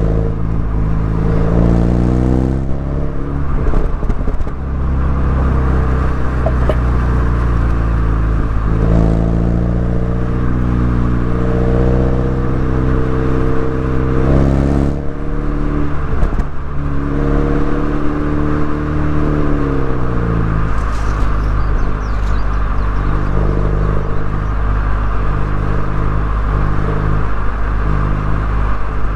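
Mini Cooper S four-cylinder engine and exhaust under way, the pitch climbing as it accelerates and dropping sharply several times in the first two-thirds, then falling away as it eases off and holding steadier near the end.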